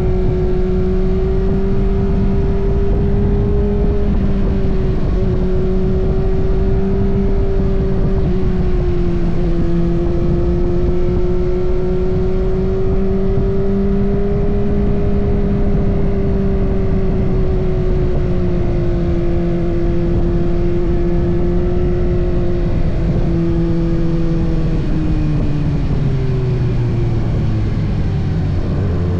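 Kawasaki ZX-6R inline-four engine running at a steady cruising pitch that wavers slightly, over a heavy rush of wind and road noise; over the last few seconds the revs fall away.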